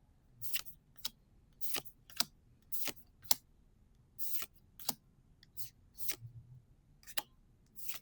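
Gundam Card Game trading cards being slid and flipped one at a time through an opened booster pack: about a dozen short sliding strokes, roughly one every half second.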